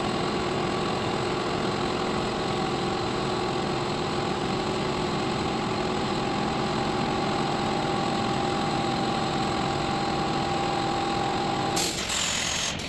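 Steady machine hum with a couple of steady whining tones over it. About a second before the end it breaks off abruptly with a short burst of noise, and the whine stops.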